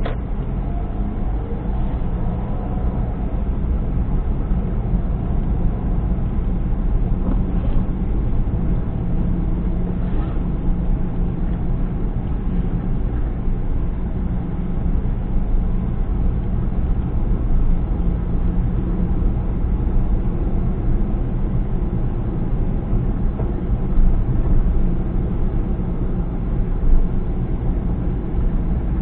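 Steady low engine and road rumble of a car being driven.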